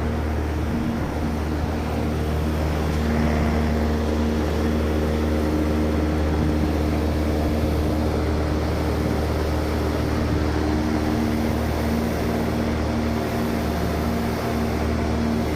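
Large packaged air-conditioning unit running steadily: a loud low hum with a few steady tones from its compressor and fans.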